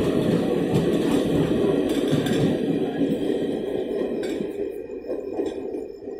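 Passenger train's coaches rushing through the station at speed, a steady rumble of wheels on rail with a few clacks, fading away over the last two seconds or so as the tail of the train passes.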